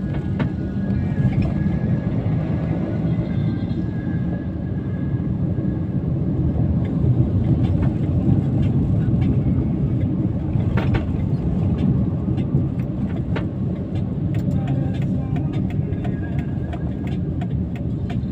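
Steady car interior noise of the engine and tyres running on a wet road in light drizzle, a continuous low rumble. Scattered faint ticks sound throughout, more of them in the second half.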